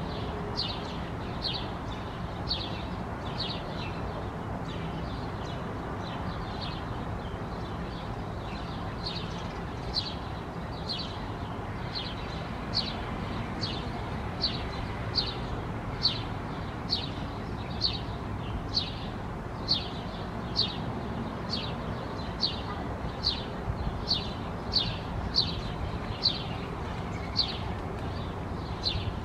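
A bird giving short, high, downward-sliding chirps over and over, about one a second, coming a little faster and louder in the second half, over a steady low background rumble.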